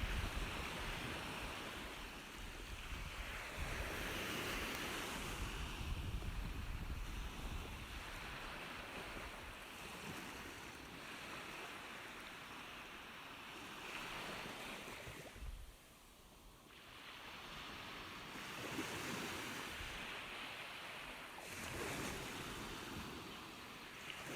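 Ocean surf, waves washing in and receding in slow swells several seconds apart, with a brief lull about two-thirds of the way through.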